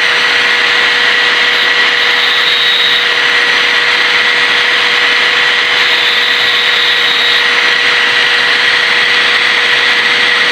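Small power grinder running steadily with a constant whine, sharpening a spark plug's electrode to a point.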